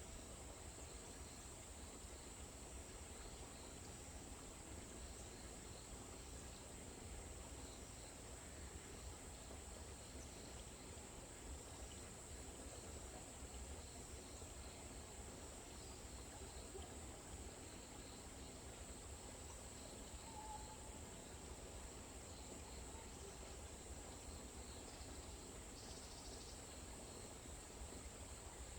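Forest ambience: a faint, steady high-pitched insect chorus that never lets up, over a low rumble, with a couple of brief faint chirps about two-thirds of the way through.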